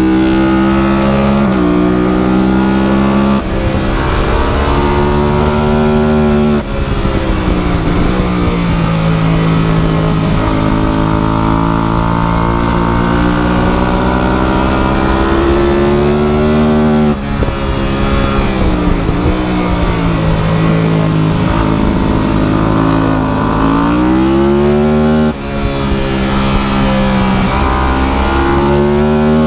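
Engine of a light vehicle running hard and steady, its pitch climbing and sagging. Four times the sound dips briefly and the pitch drops, as at gear changes, before climbing again.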